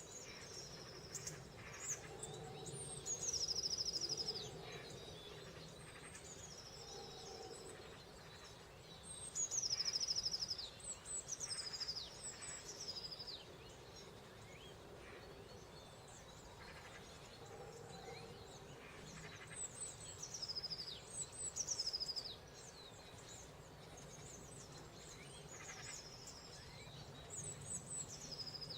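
A small songbird singing short phrases again and again, every few seconds. Each phrase is a few thin high notes dropping into a fast trill, over a steady low background rumble.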